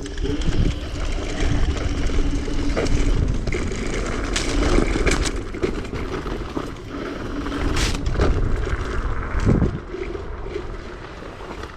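Electric vehicle riding over rough ground: a steady motor whine under a low rumble, with sharp rattles and knocks several times.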